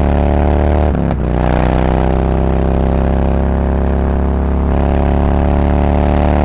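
Harley-Davidson Road Glide V-twin through SuperTrapp 4-inch FatShots slip-on mufflers with internal discs, pulling under way with the exhaust note slowly rising. About a second in there is a brief dip and drop in pitch, like an upshift, then it climbs again.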